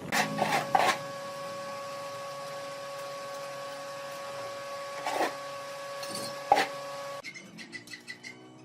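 Steady electric motor whine from a woodworking machine, with a few sharp knocks over it. The whine cuts off suddenly about seven seconds in, leaving quieter clicking.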